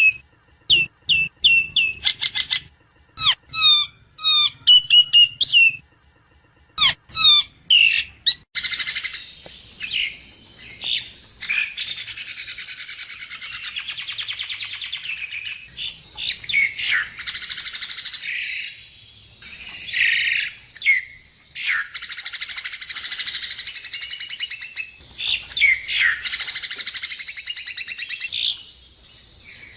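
Javan myna (jalak kebo) singing: a string of short, sharp whistled notes, then from about eight seconds in a long, harsh, rasping chatter mixed with whistles.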